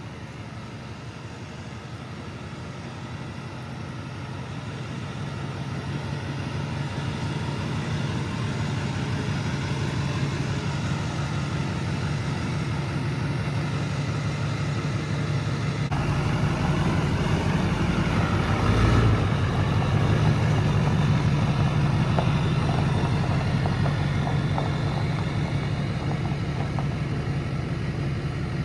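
2005 GMC 2500's Duramax diesel engine running steadily at idle, growing louder over the first ten seconds or so.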